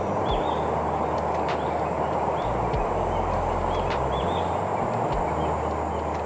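Small birds giving short, high chirps again and again over a steady rushing noise, with a few sharp clicks.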